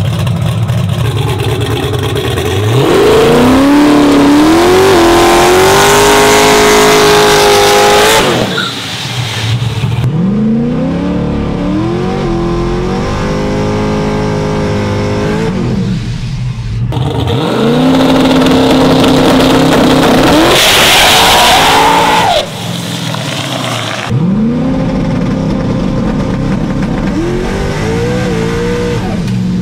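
Turbocharged LS V8 street truck engine at full throttle, revving up and holding high several times, with its pitch falling back between each run-up.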